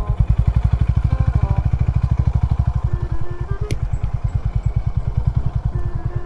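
Honda CB350 H'ness single-cylinder engine running at low revs with a rapid, even thump-thump beat. A single sharp click comes a little under four seconds in.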